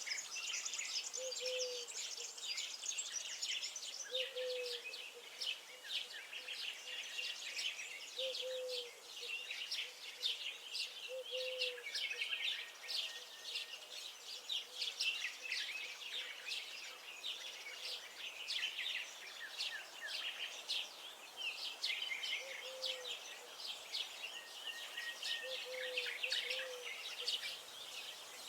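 A dense chorus of many small songbirds chirping and trilling without a break. Under it, a short, low call from another bird repeats every couple of seconds.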